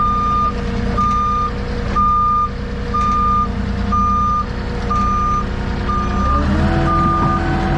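Forklift backup alarm beeping steadily, about once a second, over its engine running; the engine revs up about six seconds in as the forklift moves.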